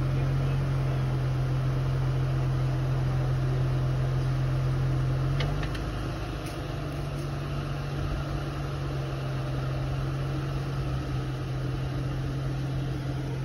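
Jeep Wrangler JK Rubicon's V6 engine idling steadily, a little quieter from about halfway through.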